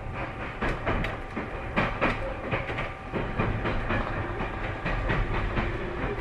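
Tobu 30000 series electric train running, heard from inside the car: a steady rumble with the wheels clicking over rail joints a few times a second.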